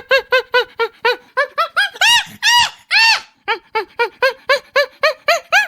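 Monkey calling: a fast run of short hooting calls, about four a second, rising in pitch into longer, louder screeches about two seconds in and again near the end.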